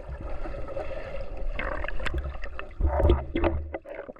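Water sloshing and splashing in a hot spring pool as people move about in it, with scattered small splashes and a low rumble on the microphone that is loudest about three seconds in.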